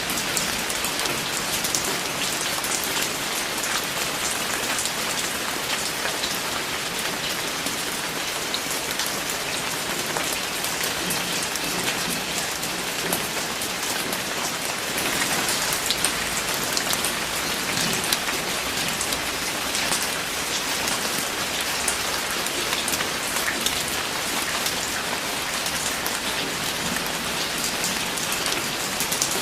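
Steady rain falling on a surface, an even hiss with many separate drops pattering through it.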